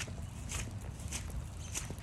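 Footsteps on a forest trail: four short, even steps about every 0.6 seconds, over a low steady rumble.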